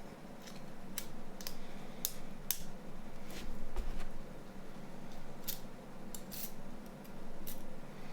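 Small plastic and metal phone parts and tools being handled during disassembly and reassembly of a Nokia 9210 communicator: a scatter of light, sharp clicks and taps at irregular intervals.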